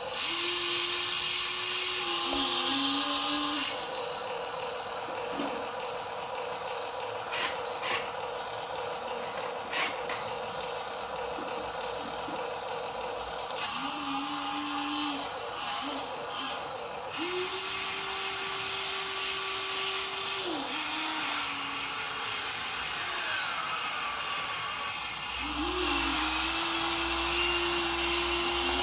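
Small electric motors and plastic gearboxes of toy RC dump trucks running with a steady power-tool-like whir. A higher whine comes and goes in spells of one to three seconds, and there are a few sharp clicks.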